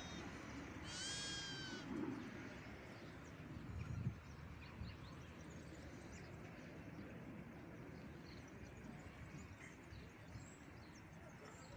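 A single high animal call about a second in, lasting about a second, over faint outdoor background, with a short low bump about four seconds in.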